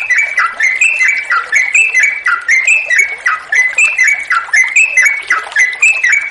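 Yellow-vented bulbul (cucak trucukan) singing a long, unbroken run of short, bubbly chirping phrases, about two to three a second, with flowing water faintly behind.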